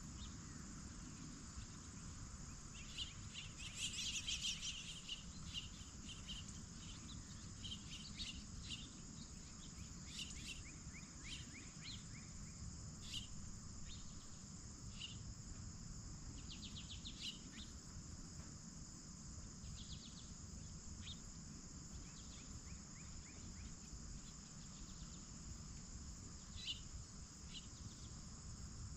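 A steady, high-pitched chorus of crickets and other insects, with scattered short bird calls over it, the loudest a quick burst of calls about four seconds in.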